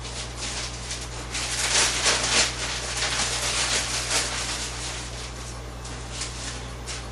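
Paper rustling and crinkling as a sheet is handled and pushed into a parrot cage, heaviest in the first few seconds, then dying down. A steady low hum runs underneath.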